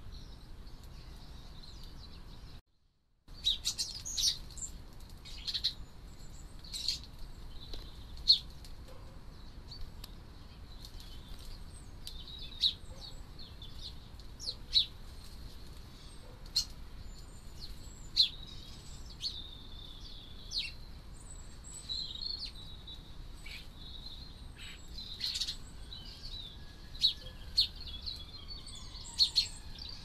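Small garden birds chirping: short, sharp calls scattered irregularly, over a steady faint hiss. The sound cuts out completely for a moment about three seconds in.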